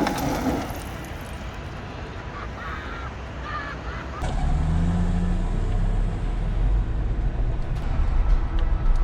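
Car engine running with a deep rumble, then suddenly louder about four seconds in as it comes under power, and staying loud to the end.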